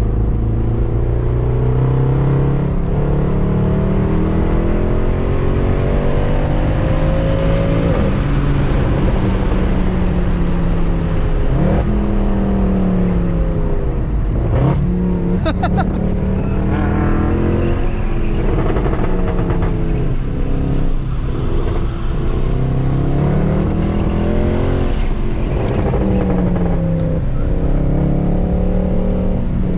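Mercedes C63 AMG's 6.2-litre V8, with secondary cats and resonators deleted, driven hard on track. The engine note climbs steeply through the revs and falls back at each shift or lift, over and over, with a couple of sharp cracks about halfway through.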